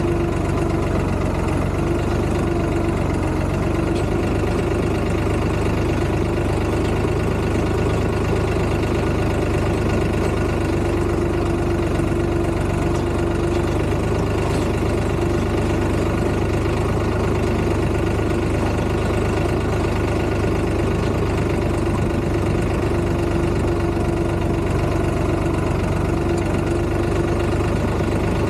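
Tractor engine running steadily at an even speed, with no change in pitch or loudness throughout.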